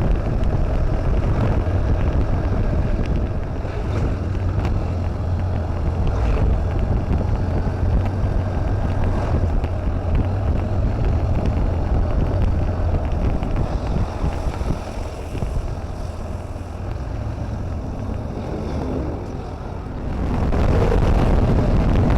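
Steady low engine rumble of a moving vehicle, with wind noise on the microphone.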